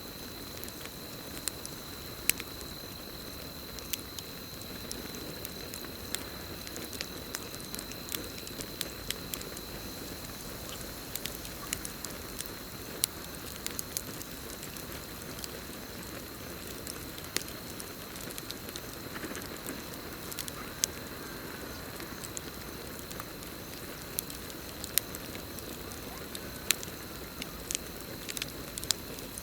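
Campfire crackling, with irregular sharp pops and snaps over a steady hiss of burning. A steady high trill of crickets runs underneath.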